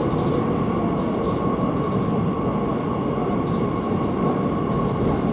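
Madrid Metro series 8000 train running between stations, heard from on board: a steady rumble of the running train with a steady high whine over it and a few faint ticks.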